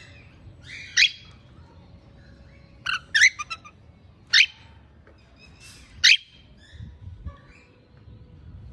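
African grey parrot giving short, sharp, high-pitched whistled calls, about five in all, spaced a second or two apart.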